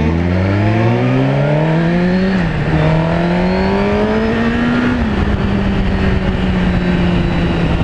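Suzuki GSX-R1000's inline-four through a Yoshimura exhaust, accelerating hard. The engine note rises and drops back as it shifts up, about two and a half seconds in and again about five seconds in, then holds steady.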